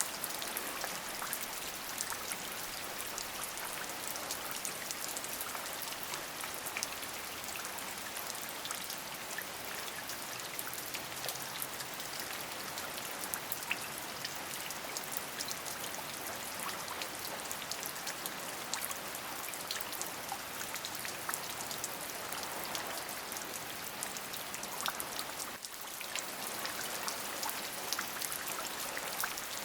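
Steady rain falling, an even hiss made of many sharp individual drop ticks, dipping briefly near the end.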